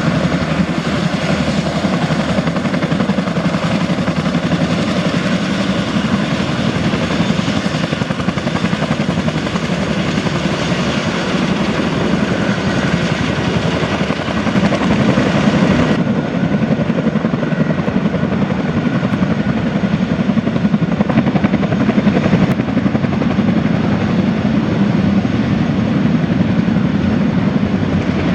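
Boeing CH-47D Chinook twin-engine tandem-rotor helicopter running close by: a steady, loud rapid beat of the rotor blades over the turbine engines, swelling briefly about halfway through.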